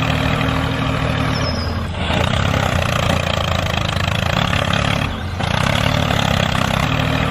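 A steady engine-like running sound, dipping briefly about two seconds and five seconds in.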